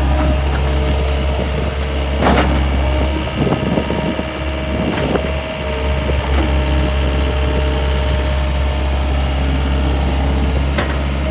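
John Deere skid steer loader's engine running steadily, with a few knocks and rattles between about two and six seconds in.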